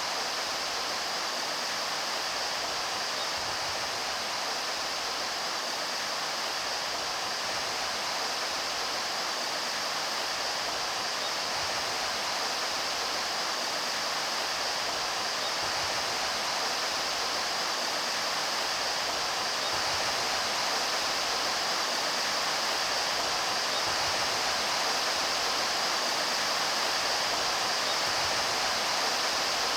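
Steady rushing of a mountain stream's flowing water, an even, unbroken wash of sound that grows slightly louder over the stretch.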